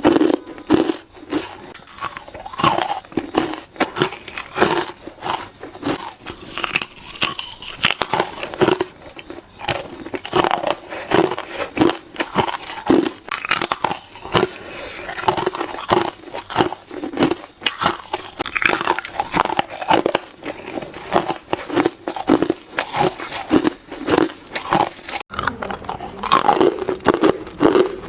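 Hard ice cubes being bitten and crunched between the teeth: a continuous run of sharp cracks and crunches, several a second.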